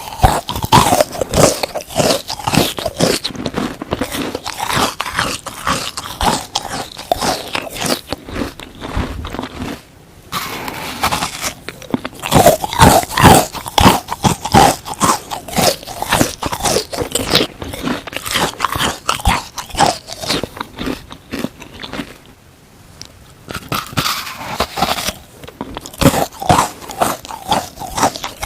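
Frozen sponge being bitten and chewed close to the microphone: dense, crackly crunches, with two short pauses, one about ten seconds in and one a little past twenty-two seconds.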